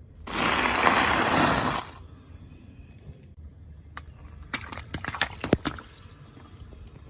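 An object crushed under a car tyre: a loud burst of crushing noise lasting about a second and a half, then a run of sharp crackles and clicks a few seconds later.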